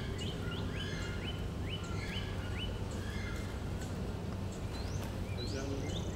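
Small birds chirping: many short, quickly rising chirps, some in rapid runs, over a steady low hum.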